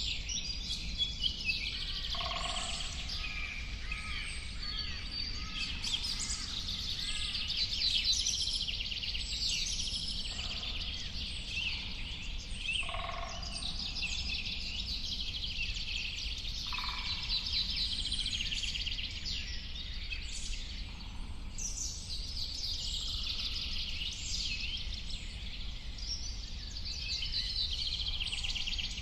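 A dense chorus of many songbirds chirping and trilling without pause, with a lower call breaking through four or five times, over a steady low rumbling noise.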